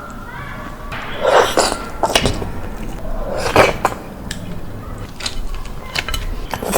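Close-up mouth sounds of someone eating shrimp: a few short sucking slurps, the loudest about a second and a half in and again past three and a half seconds, with sharp wet smacks and clicks between them.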